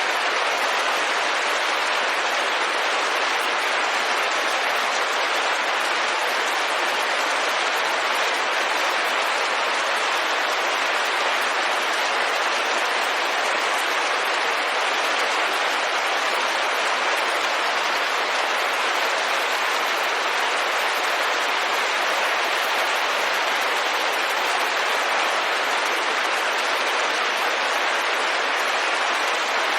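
Steady, even rain pattering on a window, a constant hiss with no breaks or single louder drops.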